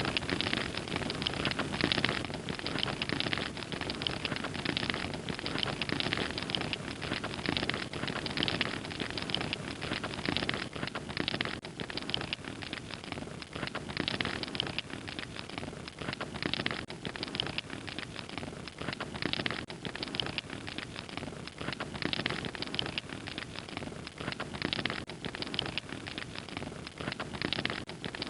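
Fire crackling steadily, with dense, irregular pops and snaps over a constant hiss.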